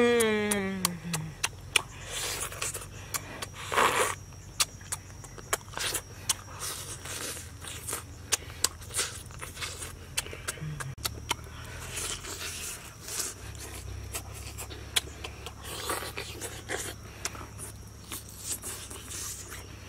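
Close-up mouth sounds of a person eating grilled meat skewers: a run of sharp, irregular chewing clicks and lip smacks. It opens with the tail of a falling vocal exclamation that fades out about a second in.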